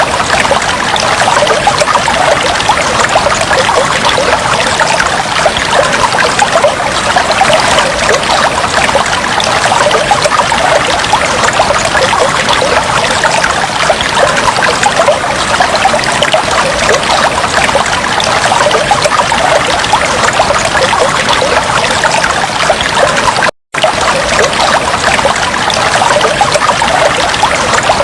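Aquarium water trickling and bubbling in a steady, dense patter. It cuts out for a split second about three-quarters of the way through.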